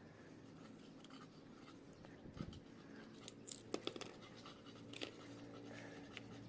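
Faint scattered clicks, taps and light scraping of small metal parts and tools being handled during engine assembly, with a low steady hum coming in about two and a half seconds in.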